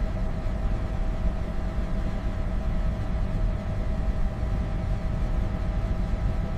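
Steady low rumble of a vehicle engine running, with a faint even hum of steady tones above it.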